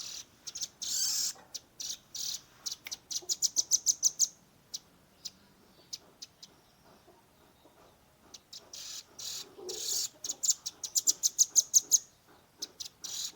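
Young velvet-fronted nuthatch calling in rapid runs of sharp, high notes, about eight a second, broken by a few longer, harsher notes. The calling thins out in the middle and picks up again.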